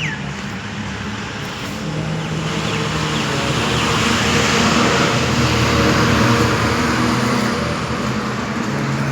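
A road vehicle passing by, its engine and road noise rising to a peak about halfway through and then fading.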